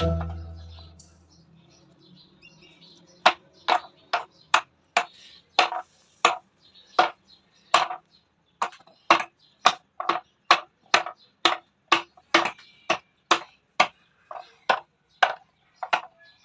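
Steady hammering, short sharp blows about two a second, starting about three seconds in. A ringing chime fades out at the very start.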